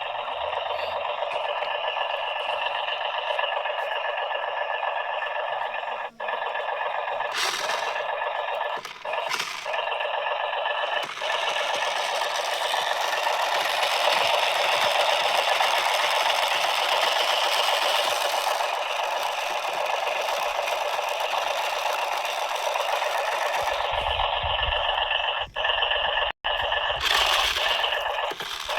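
Small electric motor and plastic gears of an RC toy tractor running with a steady whine and rattle, cutting out briefly a couple of times.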